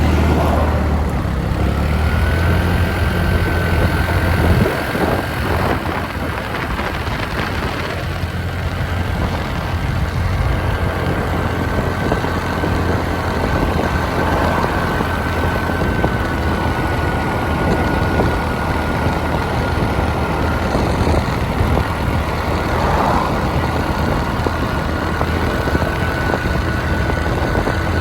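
Motorbike engine running steadily while riding, with a thin steady whine held throughout.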